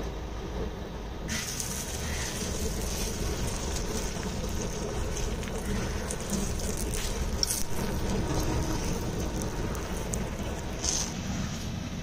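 Stuffed paratha sizzling in oil on a hot iron tawa. The hiss sets in about a second in, and a few sharp metal clicks come from steel tongs turning and lifting the bread. A steady low rumble runs underneath.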